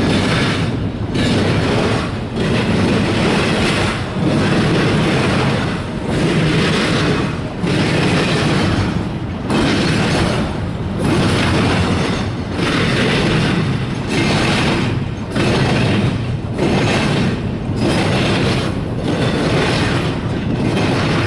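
Double-stack container train of well cars rolling past, a steady loud rumble of steel wheels on rail that dips and swells every second or two as the cars and their trucks go by.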